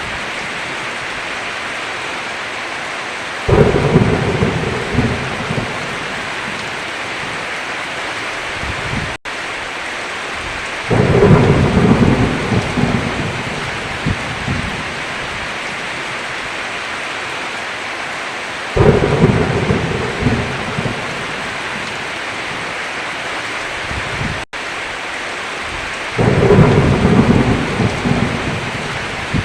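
Steady heavy rain with four rolls of thunder, each lasting about three seconds and coming roughly every seven to eight seconds. The sound drops out for an instant twice.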